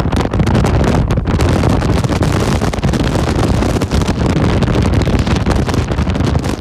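Storm-force wind blowing hard across the microphone aboard a ship in heavy seas: a loud, continuous rush with constant gusty buffeting.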